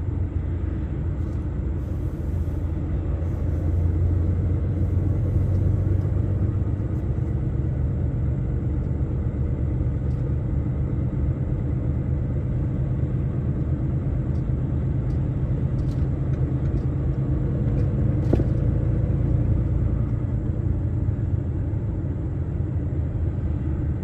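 Heavy truck driving at a steady speed: a low, continuous engine and road rumble, with a few faint clicks.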